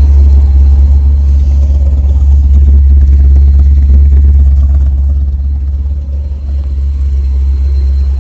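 Car engine running at idle with a loud, steady deep rumble that eases slightly about five seconds in.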